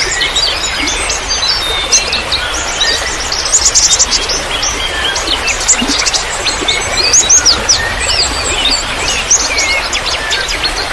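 Many small birds chirping and twittering at once, a dense chorus of quick high notes over a steady background hiss of trickling water.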